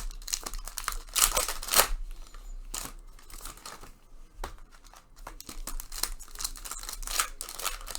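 Foil trading-card pack wrappers crinkling and tearing as retail packs are ripped open, in irregular rustling bursts that ease off briefly in the middle.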